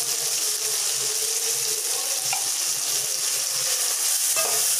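Onion, tomato and freshly added ginger-garlic paste sizzling in hot sesame oil in a metal kadai, with a steady frying hiss. A slotted metal spatula stirs the mix around the pan.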